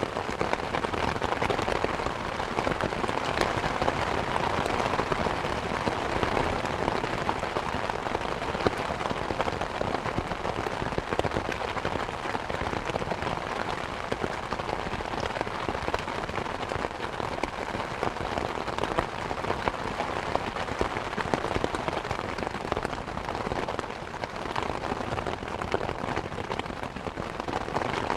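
Heavy thunderstorm rain falling steadily, a dense, even patter of drops.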